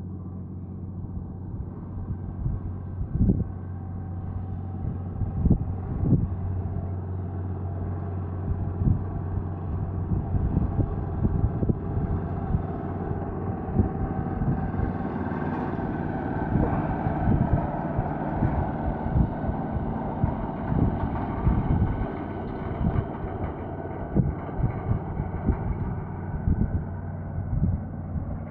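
Tractor engine running at a steady speed, with irregular knocks and rattles over it.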